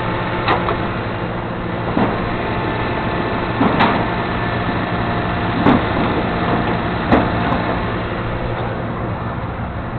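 Vehicle engine idling steadily, with five or six sharp knocks and clanks spread a second or two apart over it.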